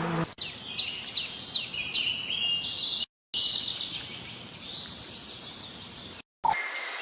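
Small birds chirping rapidly, a busy run of short, high, downward-sliding chirps over a steady outdoor hiss. The sound drops out completely for a moment twice.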